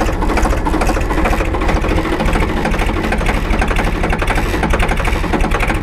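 Tractor diesel engine running steadily at a fixed hand-throttle setting, with a fast, even clatter, as the clutch is let out in fourth gear and the tractor pulls away without load. Pulling away cleanly in a high gear is the test of a strong, healthy engine.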